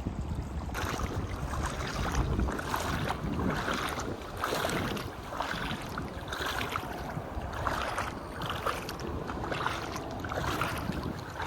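River water flowing and splashing in repeated uneven bursts, with low wind rumble on the microphone.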